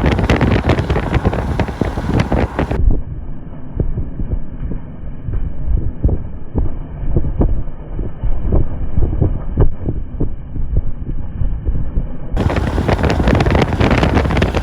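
Strong wind gusting hard against the microphone, a heavy low rumble with buffeting, from the wind field around a tornado. It sounds duller and more muffled from about three seconds in until about twelve seconds in.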